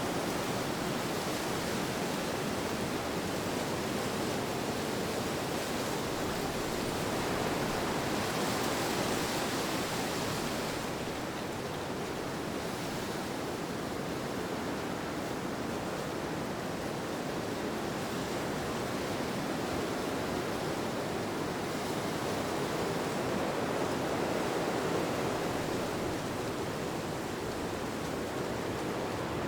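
Steady rushing wind that slowly swells and eases, strongest about a third of the way in and again near the end.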